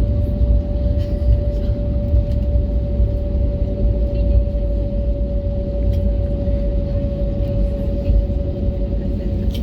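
Airbus A321neo cabin noise with its Pratt & Whitney geared-turbofan engines running: a heavy, steady low rumble with a steady hum just under 600 Hz on top.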